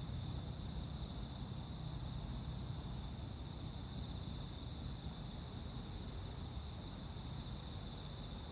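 A chorus of insects, crickets and the like, singing steadily in a continuous high-pitched trill, over a low rumbling background noise.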